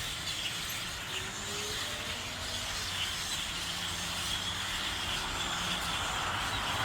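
Steady outdoor background noise, an even hiss with a faint low hum, swelling slightly toward the end.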